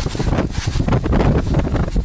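Wind buffeting the microphone in a heavy rainstorm: a loud, gusty low rumble with constant crackling.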